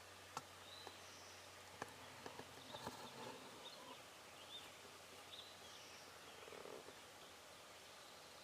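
Faint outdoor quiet with scattered short, high songbird chirps and a few small sharp clicks.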